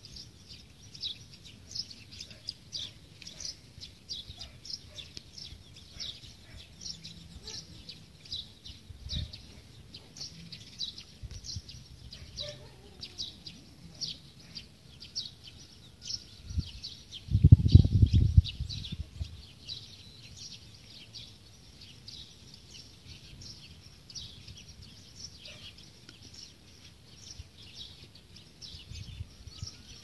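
Small birds chirping steadily, many short high notes overlapping. A little past halfway a low rumble of about a second is the loudest sound.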